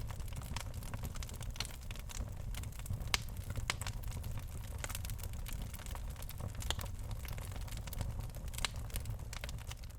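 Birch logs burning in a fireplace: frequent irregular sharp crackles and pops over a steady low rumble of the fire.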